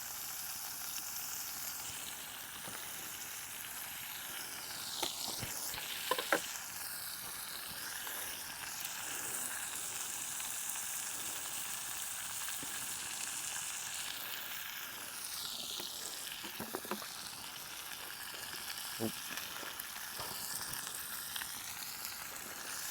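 Steak sizzling in a frying pan over a campfire: a steady high hiss of frying fat and juices, with a few sharper pops and crackles.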